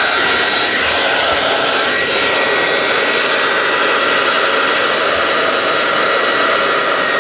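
Handheld hairdryer running steadily: a loud, even rush of blown air with a faint high whine from its motor.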